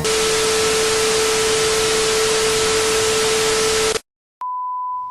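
Loud static-like white noise with a steady humming tone runs for about four seconds and cuts off suddenly. After a brief silence a click is followed by a steady pure beep tone near the end.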